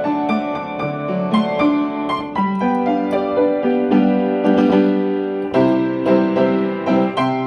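Instrumental piano music: chords and melody notes played at a moderate pace, with a sharp new chord about five and a half seconds in.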